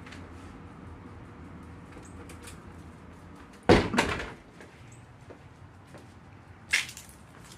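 A door being opened and shut: a loud knock with a rattle just after it about halfway through, and a shorter sharp knock near the end, with small clicks and handling sounds between.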